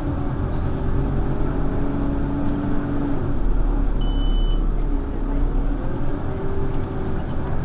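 Scania OmniCity single-deck bus's diesel engine running under way, a steady low rumble whose pitch rises and falls as speed changes. A brief high beep sounds about four seconds in.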